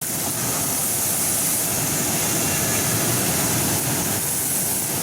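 A strawberry washing machine running with a steady, even rushing noise.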